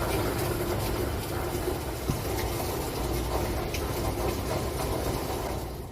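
Steady low rumble with a hiss over it, like outdoor traffic ambience, with a few faint clicks.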